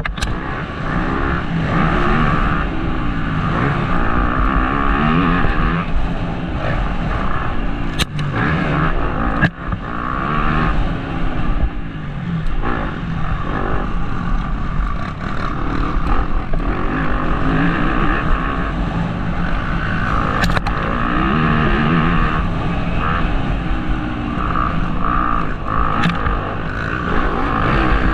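Motocross bike engine revving up and down again and again as the rider accelerates and shuts off through the track's sections, heard from the rider's helmet camera. A few sharp knocks are heard along the way.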